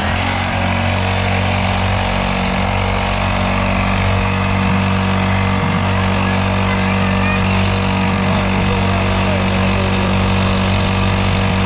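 Small kids' dirt bike engine running steadily at an even pitch while being ridden, over a broad rushing noise.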